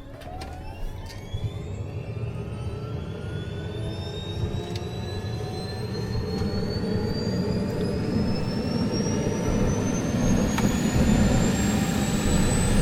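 Helicopter turbine engine spooling up at start: a whine that climbs steadily in pitch while the engine and rotor noise grow louder.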